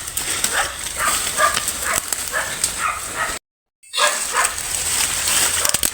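An animal making short yelping calls, about three a second, like a dog's yips, over a steady high hiss. The sound drops out completely for about half a second a little past the middle.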